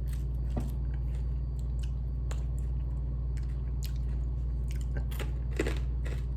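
Close-miked chewing and mouth clicks while eating fried chicken, a scatter of short wet smacks and crunches, over a steady low hum.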